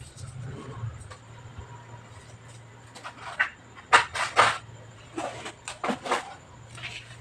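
A series of sharp clicks and knocks from hard objects being handled, bunched in the second half, over a low steady hum.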